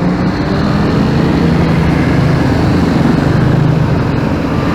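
Motorcycle riding in city traffic: a steady engine hum that drifts slightly in pitch, over constant road and wind noise.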